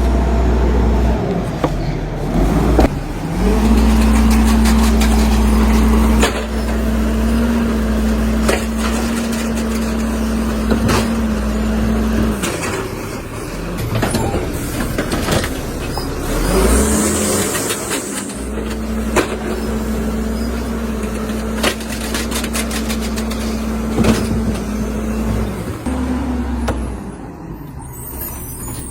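Garbage truck running, with two long stretches of a steady droning hum, knocks and clatter throughout, and a brief air hiss about 17 seconds in.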